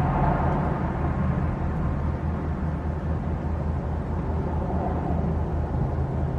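Small-block Chevy 305 V8 of a 1989 Chevrolet Caprice running steadily through Flowmaster Delta 40 mufflers with side-exit tips, a low, even exhaust rumble with no revving.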